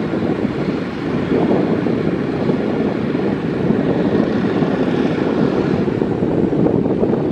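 Heavy diesel earthmoving machinery running under load, a steady, loud, low rumble that grows a little louder about a second in.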